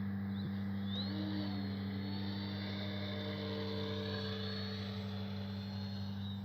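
Brushless electric motor and propeller of an FMS Ranger 1220mm RC plane whining in flight, the pitch rising and falling as it passes and changes throttle, over a steady low hum.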